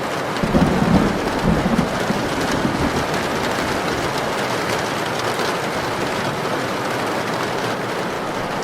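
Heavy rain pouring steadily, with a few low rumbles between about half a second and two seconds in.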